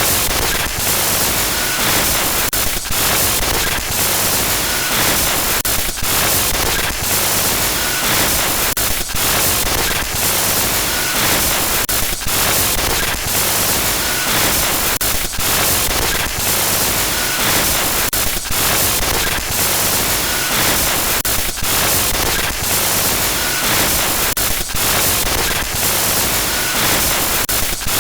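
Harsh, loud glitch-noise static from a horror sound effect: a dense hiss broken by brief dropouts once or twice a second.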